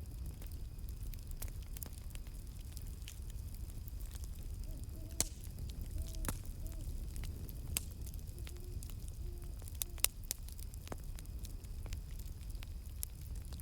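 Wood campfire burning with a steady low rumble and scattered sharp crackles and pops, the loudest pop about ten seconds in. Short, low owl hoots come in faintly from about a third of the way through.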